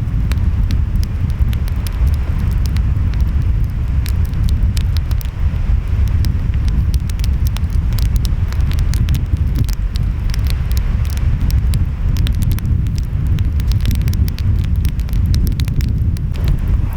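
Wood fire crackling with many sharp pops, over a steady low rumble of surf and wind.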